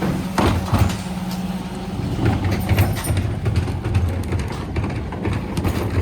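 Mercedes Econic refuse truck working at the kerb: a steady hum that stops about two seconds in, with sharp knocks near the start, then irregular low thumping and clatter.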